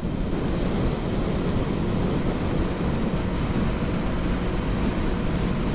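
Honda CB500F parallel-twin motorcycle at high highway speed: steady wind rush over the rider's microphone with the engine running underneath.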